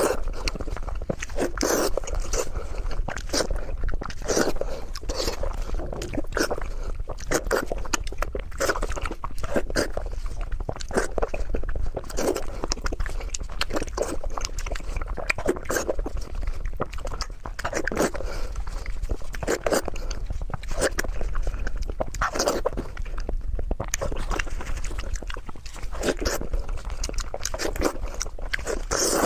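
A person eating braised pork with loud, wet chewing and lip-smacking close to the microphone, a continuous run of smacks several times a second.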